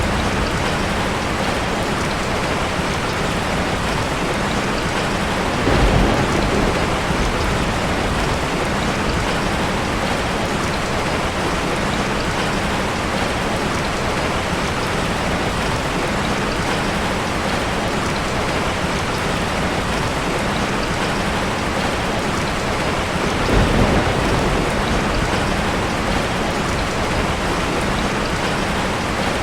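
Steady heavy rain falling, with two brief low rumbles of thunder, about six seconds in and again near the end.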